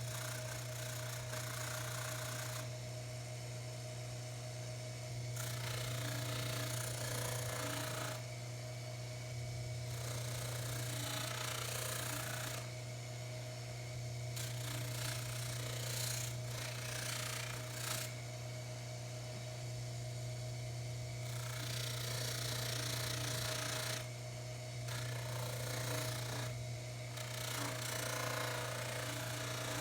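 Baldor 353T dental lathe running with a steady hum while a pipe stem is pressed against the spinning buffing wheel in stretches of a few seconds, each adding a rubbing hiss. The stem is being buffed with tripoli compound to take off the remaining oxidation.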